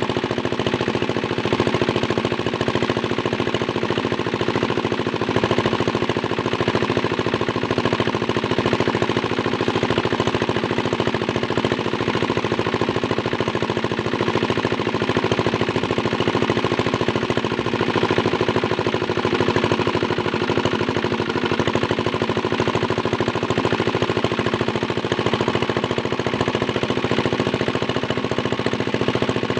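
Small Chinese diesel engine running steadily under load, driving a water pump, with a rapid, even knocking beat.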